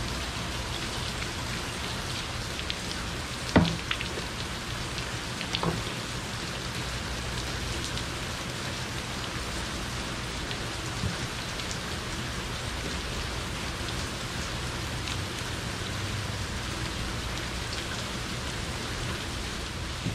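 Torrential rain falling steadily, with a sharp knock about three and a half seconds in and a smaller one about two seconds later.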